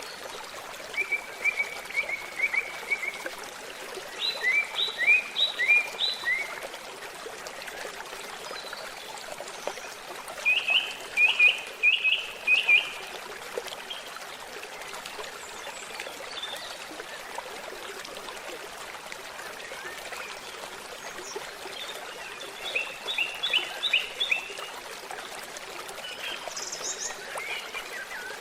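A stream babbling steadily, with songbirds singing short runs of quick repeated chirps about four times over it and a few higher notes near the end.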